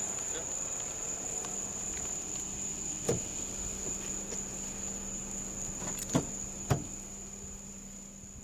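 Steady high-pitched trill of crickets over a faint low hum, with three short knocks: one about three seconds in and two close together near six seconds. It grows fainter near the end.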